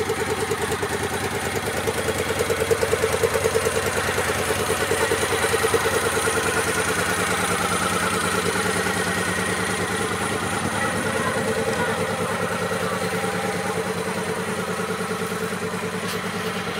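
Moto Guzzi V7 Classic's air-cooled V-twin idling through its exhaust, with a steady, even beat.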